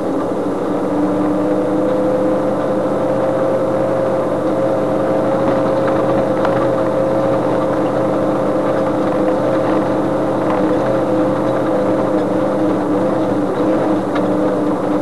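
Vehicle engine running at a steady low speed, heard from inside the cabin, while driving along a rough dirt road. Its drone rises slightly in pitch over the first few seconds and then holds, with faint knocks and rattles from the bumpy track.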